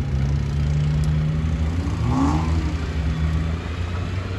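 A motor engine running steadily with a low hum, with a brief rise and fall in pitch about two seconds in, like a short rev.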